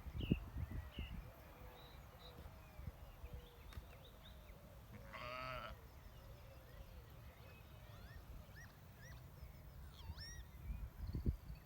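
A lamb bleats once, a wavering call about five seconds in, over scattered chirps of small birds. Near the end a bird starts a run of swooping, robotic-sounding calls.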